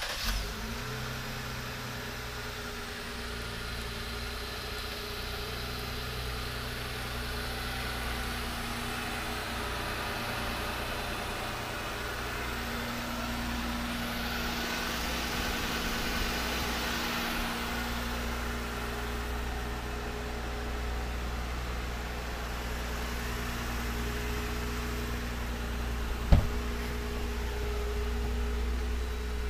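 2018 Jeep Wrangler JL Rubicon's 3.6-litre V6 idling steadily. A single sharp knock comes near the end.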